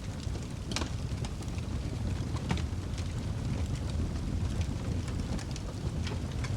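Wood fire burning in a fireplace: a steady low rumble of flames with scattered sharp crackles and pops from the burning logs, a few louder ones about a second in, midway and near the end.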